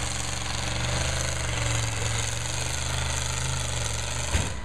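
Demolition derby car engine running with a steady, rapid, choppy rumble, with a short sharp knock near the end.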